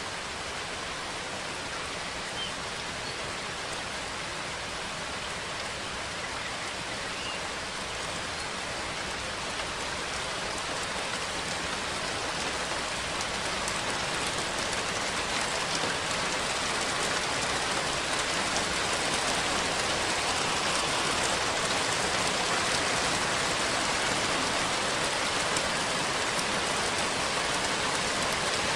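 Steady rain falling, growing gradually heavier.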